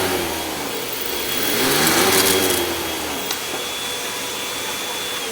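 Hoover WindTunnel 2 Rewind upright vacuum cleaner running with a steady high motor whine. Its pitch and loudness swell up and back down twice, once at the start and again about two seconds in.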